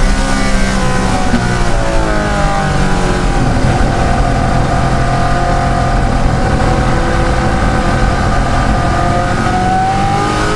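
De Tomaso Pantera's Ford V8 racing engine under load: the revs fall over the first few seconds, hold fairly level through the middle, then climb again near the end.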